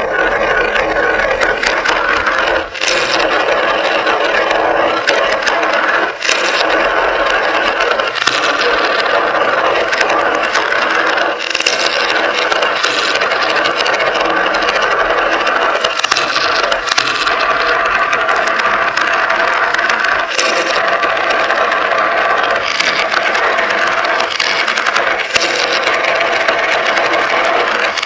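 Many glass marbles rolling and clicking continuously along a marble run track: a dense, steady rattle of small clicks and rolling.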